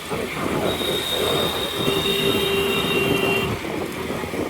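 A high, steady metallic squeal of two tones that lasts about two to three seconds and fades out about three and a half seconds in, heard over continuous road and wind noise from riding.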